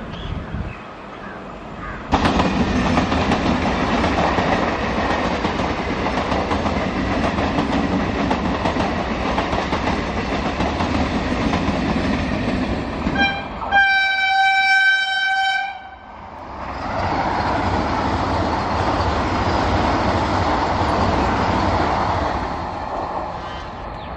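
Vande Bharat Express electric train passing at speed, a steady loud rush of wheels on rail. About halfway through it sounds one long, high horn note lasting around two seconds, then the rushing returns.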